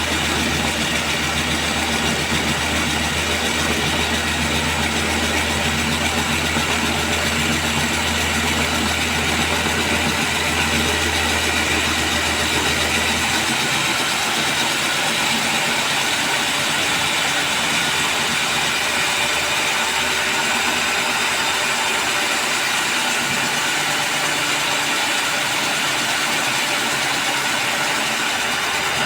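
Concrete core-cutting drill running steadily, a loud even machine noise. A low hum underneath drops out about halfway through while the drill keeps running.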